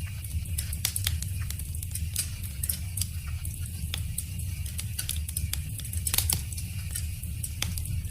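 Wood fire crackling: frequent, irregular sharp snaps and pops over a steady low rumble.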